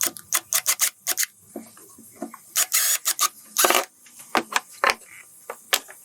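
Hand work on small hard parts: a quick run of clicks and knocks, then scattered taps and two short scraping rubs about two and a half and three and a half seconds in.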